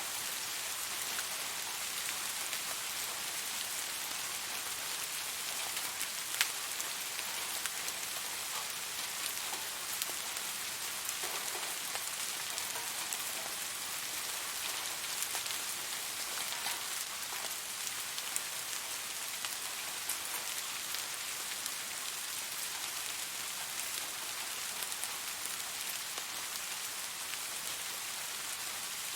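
Steady rain falling on a surface, an even hiss with scattered individual drop taps, one louder tap about six seconds in.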